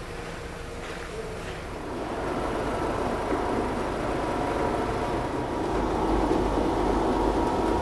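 Car lift's motor running steadily as it raises the car, a hum with a held whine that grows slightly louder.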